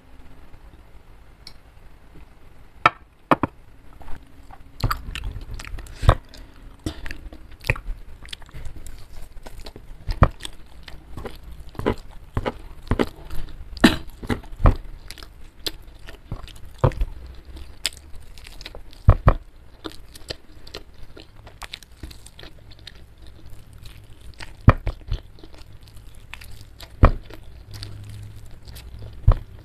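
Close-miked chewing and biting of fried chicken, mouth sounds with many irregular sharp clicks and crunches. The clicks begin about three seconds in.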